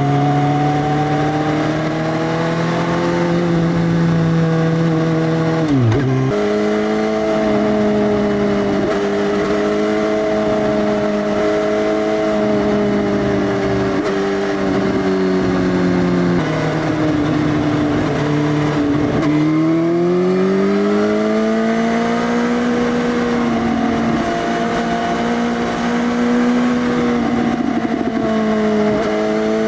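Suzuki GSX-S1000's inline-four running through a full Arrow Race Tech exhaust with the dB killer removed, ridden on the road. The exhaust note mostly holds steady. It drops sharply about six seconds in, steps down around sixteen seconds, and dips near nineteen seconds before rising steadily as the bike pulls away again.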